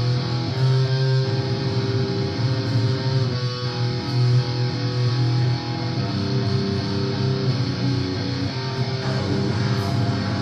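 Doom-style electric guitar and bass music: slow, long-held chords over a thick wash of noise, changing chord a few times.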